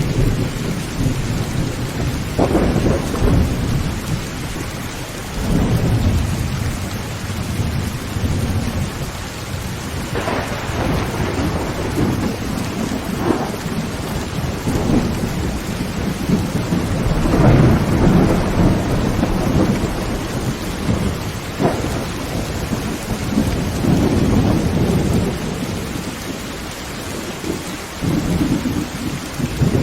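Heavy rain drumming on a tin roof, with thunder rumbling again and again through the storm.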